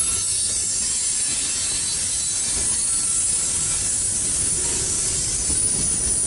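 Covered hopper cars of a freight train rolling past close by: a steady rattle and rumble of steel wheels on the rails, with a faint thin high wheel squeal at times.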